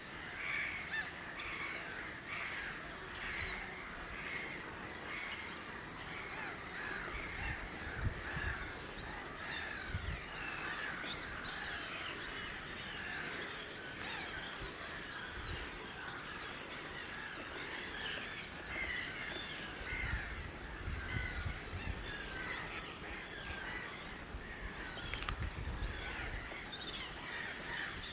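Many wetland birds calling at once: a dense, continuous chatter of short chirping calls, with a few low rumbles among them.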